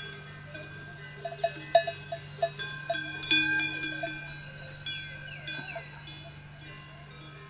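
Bells clanking irregularly, each strike leaving several ringing tones, with the strikes bunched a couple of seconds in. Short falling chirps come and go around them.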